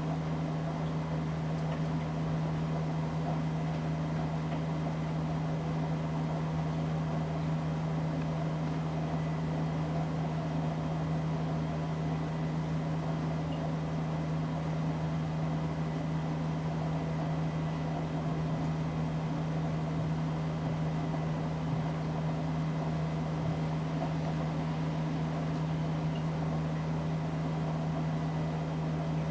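Casablanca Delta ceiling fan running steadily: a constant motor hum with a strong low tone over an even whoosh.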